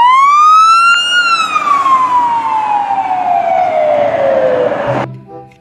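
A siren sounding one wail over a steady rushing noise: the pitch rises for about a second, then falls slowly for about four seconds, and the sound cuts off suddenly near the end.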